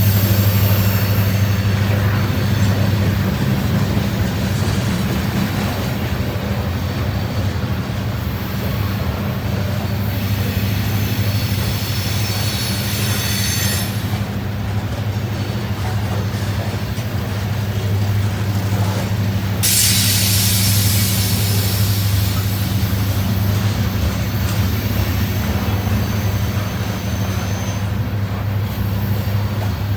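Norfolk Southern freight train's cars rolling past, a steady rumble of steel wheels on the rails with a faint high wheel squeal at times.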